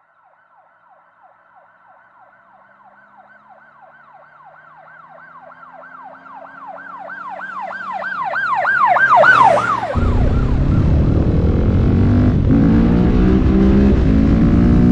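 Electronic siren on a fast yelp, its pitch sweeping up and down about three times a second and growing steadily louder, as if approaching. About ten seconds in, a loud, low, rough sound cuts in abruptly and takes over.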